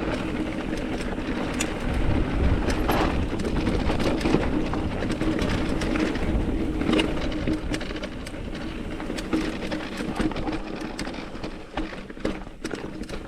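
Mountain bike rolling fast downhill over a rocky trail: tyres crunching over rock and the bike rattling with many sharp clicks, over a low wind rumble on the helmet camera's microphone. It is loudest in the first half.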